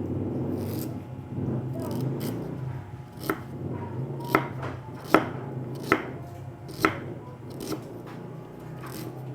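Kitchen knife chopping ginger on a cutting board, with single sharp strokes about once a second that stand out clearly from about three seconds in.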